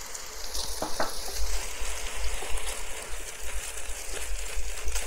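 Fried rice sizzling in a hot wok with freshly added soy sauce, a spatula stirring and scraping through it. The sizzle grows louder about half a second in and stays steady.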